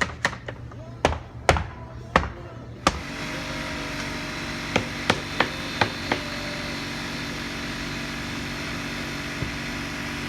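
Several sharp knocks in the first three seconds, then a motor starts and runs steadily, with five light taps over it about five seconds in.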